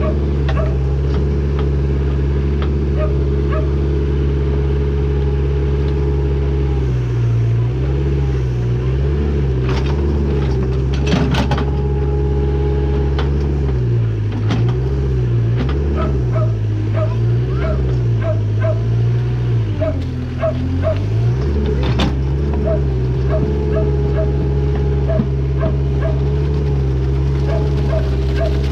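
Backhoe's diesel engine running, steady at first, then its pitch repeatedly dipping and rising for about fifteen seconds as the digging arm works under load, before settling back to a steady run.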